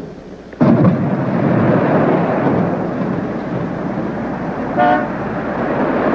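A thunderclap hits suddenly about half a second in and rolls on as a long rumble over steady rain. Near the end comes one short horn toot.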